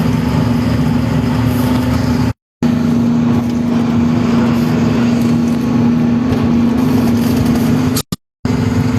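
A heavy goods truck's diesel engine running at a steady speed with an even, unchanging drone. The sound breaks off into silence twice, each time for a moment.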